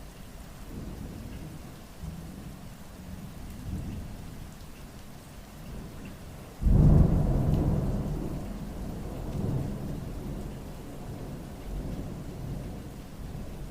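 Thunder over steady rain: low rumbles swell from about a second in, then a sudden loud clap about halfway through dies away slowly over several seconds, with another rumble near the end.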